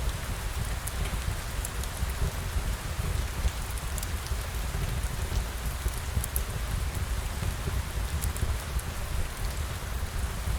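Steady rain falling, with many small sharp drop ticks over an even wash of rain noise and a low rumble underneath.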